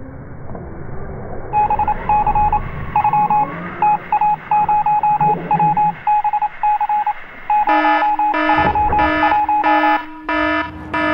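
Rhythmic electronic beeping: a high beep repeated about two to three times a second, switching about 8 s in to a lower, buzzier beep pattern.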